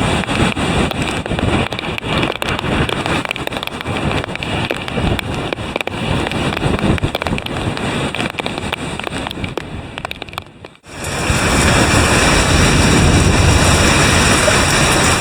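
Typhoon wind gusting hard on the microphone over rain and crashing surf. About two-thirds of the way in the sound cuts out abruptly and returns as a steadier, louder rush of wind and waves.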